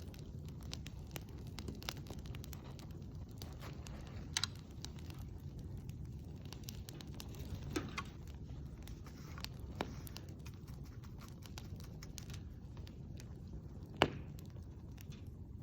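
Campfire crackling, with a steady low rush under many small snaps and a few louder pops; the loudest pop comes near the end.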